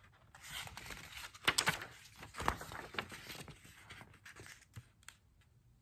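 Stiff glossy page of a picture book being turned by hand: papery rustling with a few sharp knocks as the page flips over and lands, settling after about three and a half seconds.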